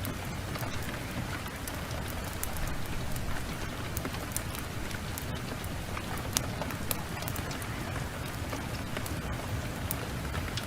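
Heavy rain pouring steadily, mixed with scattered sharp crackles and pops from a burning wood fire, one louder pop a little past the middle.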